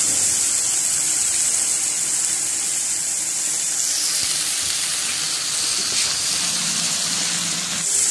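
Coriander, spinach and chicken curry sizzling and bubbling in ghee in a frying pan: a steady hiss.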